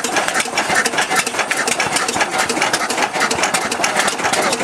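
17 HP Ruston Type CR single-cylinder diesel engine running steadily, with a rapid, even clatter.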